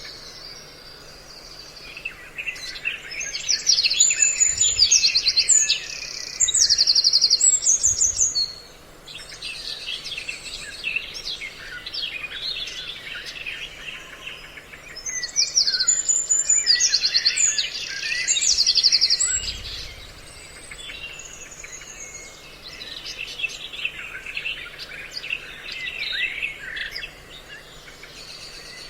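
A recorded mix of several kinds of songbird calls, played as a lure call for trapping birds: bursts of rapid chirps and trills, with the same loud passage coming round again about every twelve seconds, over a faint steady hum.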